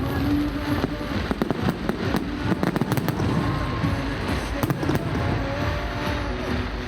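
Fireworks display: a rapid, irregular series of bangs and crackles from bursting shells, with music playing underneath.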